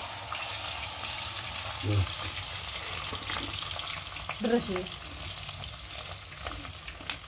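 Food frying in hot oil in a metal pan over a wood fire: a steady sizzle.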